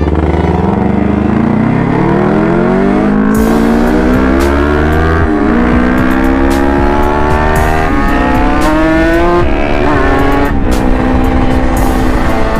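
Kawasaki Ninja sport-bike engine pulling away from low revs and accelerating through the gears, heard from the rider's seat. Its pitch climbs steadily, then drops at each of three upshifts about five, eight and ten and a half seconds in.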